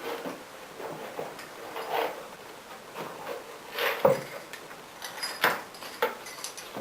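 Irregular knocks and clatters, about a dozen, the loudest about four and five and a half seconds in, over a steady hiss.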